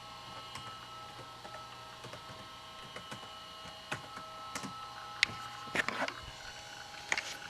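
An old Toshiba Tecra 8000 laptop running with a steady high electronic whine, and a few sharp clicks scattered over the second half.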